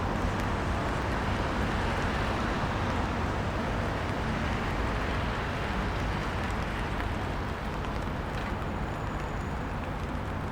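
Steady outdoor city background noise: a low rumble with an even hiss over it, with no music or speech.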